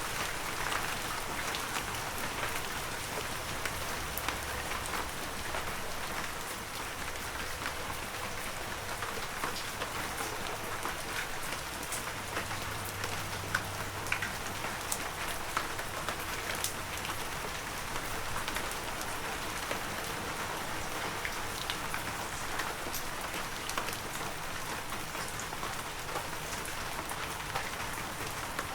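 Heavy rain falling steadily, with individual drops ticking sharply through the even hiss.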